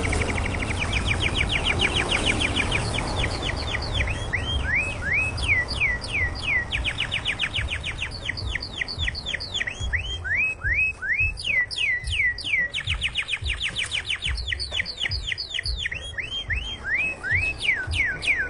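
Domestic canary singing continuously in full song: long, fast trills of rapid repeated notes alternating with series of slower notes that sweep downward in pitch.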